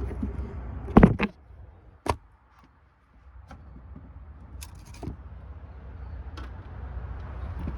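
Clicks and knocks of the plastic air filter housing being worked loose and lifted out of the engine bay. There is a loud knock about a second in and a few sharper clicks later, over a low rumble.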